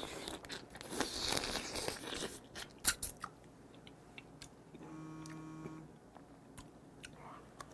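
Biting and chewing raw swimming crab: wet crunching with sharp cracks of the thin shell in the first three seconds, the loudest just before three seconds in. About five seconds in, a brief closed-mouth hummed 'mmm' while chewing.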